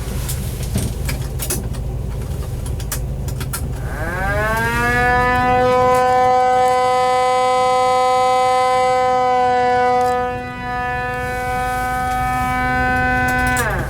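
Mechanical siren on a 1955 Plymouth Belvedere police car winding up about four seconds in, rising in pitch to a steady wail, holding for about nine seconds with a short dip, then cutting off near the end.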